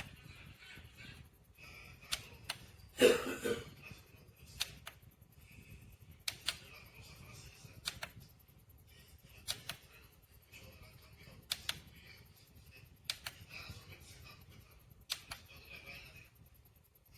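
Sharp clicks every second or two, some in pairs, with a louder short clatter about three seconds in, over a faint steady hiss.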